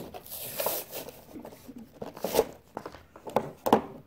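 Toy truck packaging being worked open by hand: a rustling tear in the first second, then a few sharp clicks and knocks as the package is pulled at.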